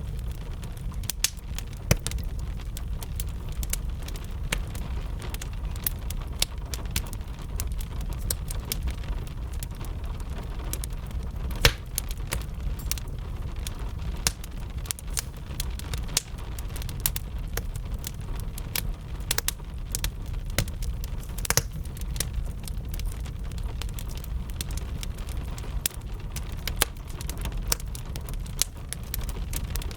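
Wood fire crackling with frequent irregular sharp pops, one louder pop a little before the middle, over a steady low rumble and a soft hiss of gentle rain.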